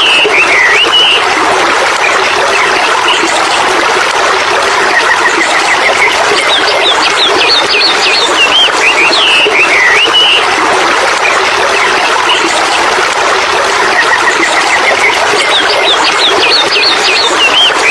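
Small birds chirping and trilling in bursts, with quick runs of repeated notes twice, over a steady rushing noise that is the loudest sound throughout.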